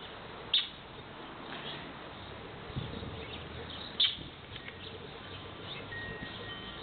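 Wild birds mobbing a hiding cat, giving two short, sharp high calls about half a second and four seconds in, with fainter chirps scattered between.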